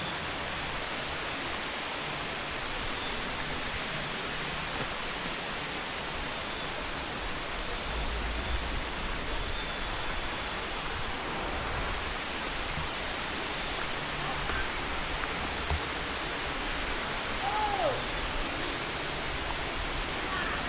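Steady, even rushing hiss, with a few low rumbles about eight seconds in.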